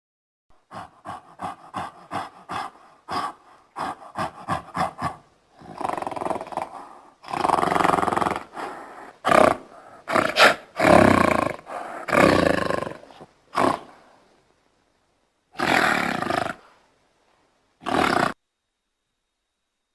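Tiger calling: a quick run of short, repeated calls, about two or three a second, then several longer, louder roars. Near the end come two more single roars, each cut off abruptly into silence.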